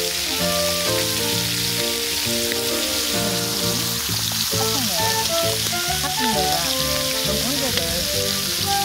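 Pork belly sizzling steadily in its own fat on a seasoned cast-iron cauldron-lid griddle, a continuous crackling hiss, with music playing over it.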